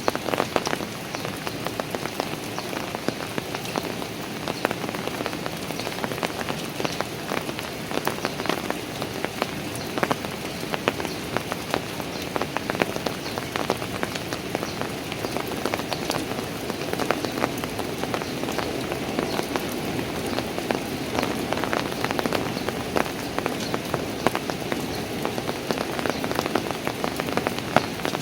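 Steady rain falling on park stairs and paving, with many sharp individual drips and splashes scattered through the steady patter.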